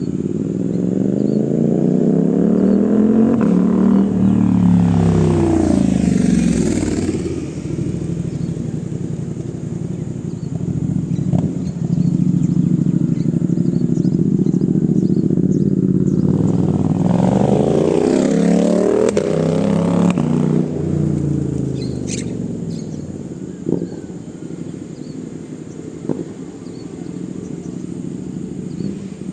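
Suzuki GSX-8S parallel-twin engine through an aftermarket full-system exhaust, its note swelling up and falling away twice, about four seconds in and again about eighteen seconds in, with a steady running note between.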